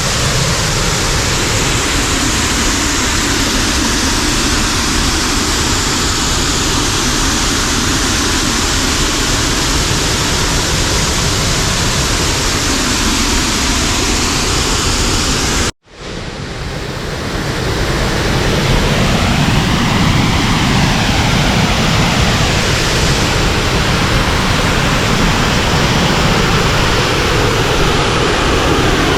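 Rush of a waterfall close by: loud, steady noise of falling water, broken by a sudden cut about 16 seconds in, after which it comes back up within a couple of seconds.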